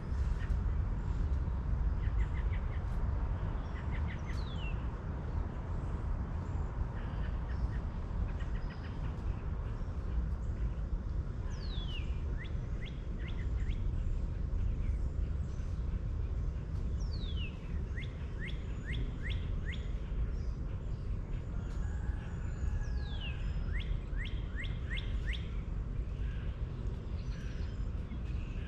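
A songbird singing a repeated phrase, a falling whistle followed by a quick run of short notes, about every five or six seconds, over a steady low rumble.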